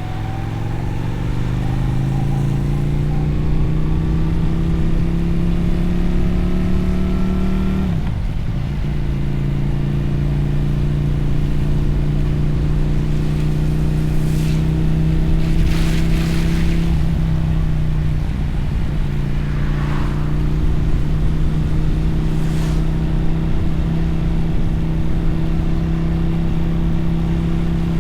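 Twin-cylinder motorcycle engine and exhaust pulling up through a gear, its pitch rising for several seconds, then a gear change and a long steady cruise, with a short dip about two-thirds of the way through. A few brief hissing swells come and go over it.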